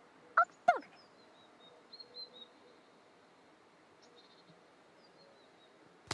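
Two short, sharp squeaky calls falling in pitch near the start, then a few softer chirps and faint high bird twittering.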